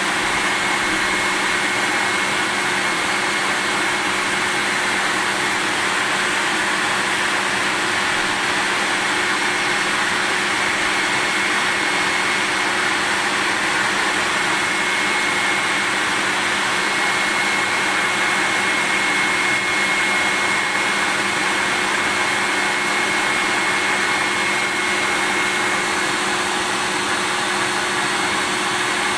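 Vacuum cleaner running steadily: an even rush of air with a thin, steady high whine from the motor, unchanging throughout.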